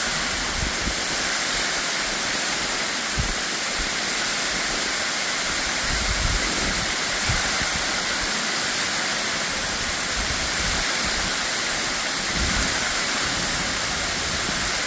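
Steady rush of a waterfall, a continuous even roar of falling water, with a few brief low thumps.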